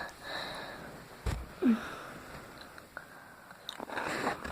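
Mouth and nose sounds of a person tasting a crispy M&M: sniffing breaths and small knocks, with a brief falling murmur about a second and a half in.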